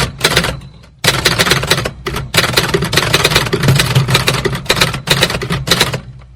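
Old typewriter being typed on quickly: rapid runs of key clacks broken by short pauses, over a low steady hum.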